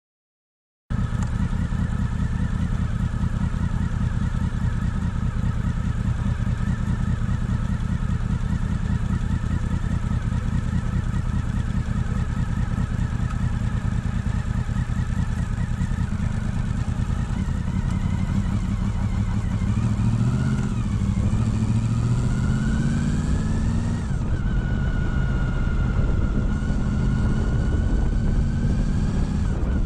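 Motorcycle engine running as the bike rides along, cutting in abruptly about a second in. It runs steadily at low revs, then from about 18 s the revs climb in rising sweeps, dropping suddenly near 24 s at a gear change before settling at a steady higher note.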